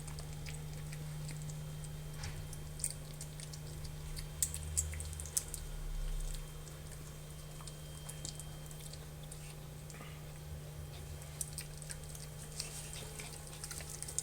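Maltese puppies chewing and crunching dry kibble: many small, irregular crisp clicks over a steady low hum.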